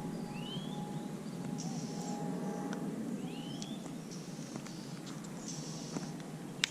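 A bird repeating a short, rising call about every three seconds, over steady low background noise and brief patches of high hiss.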